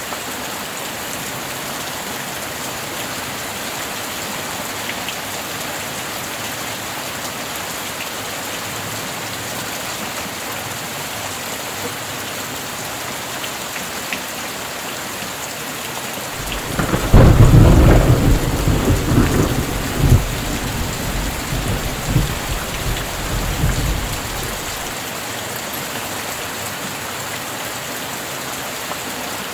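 Steady rain, with a peal of thunder a little past halfway: a sudden loud crack that rolls on as a deep rumble for about seven seconds before fading.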